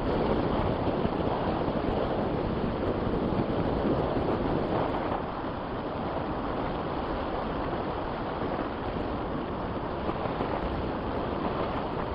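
Strong wind rushing and buffeting over the microphone in flight, a dense steady roar with no engine in it.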